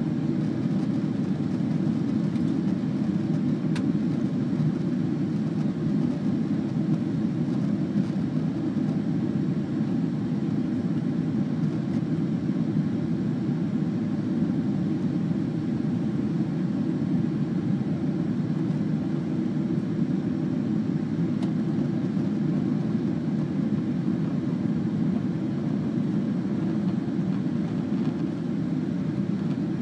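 Steady, even cabin noise of a jet airliner: engine and airflow rumble inside the cabin, with no change in level.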